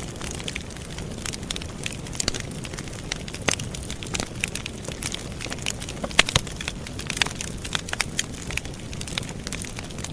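Wood campfire burning, crackling with frequent irregular snaps and pops over the steady low rush of the flames; the sharpest pop comes about six seconds in.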